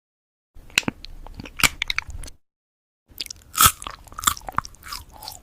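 A cat chewing crunchy food close to the microphone, with quick crisp crunches and bites in two bouts split by a brief dead-silent break.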